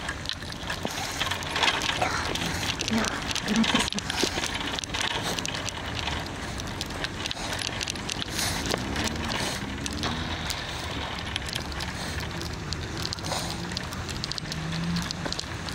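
Bicycle ride over snow: a steady noise of tyres on a snowy road, full of small crackles.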